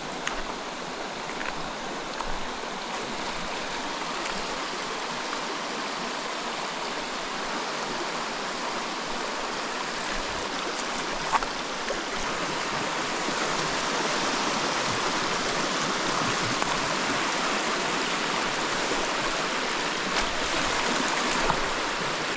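Rainforest creek water rushing steadily over rocks, growing a little louder about halfway through, with one sharp click about eleven seconds in.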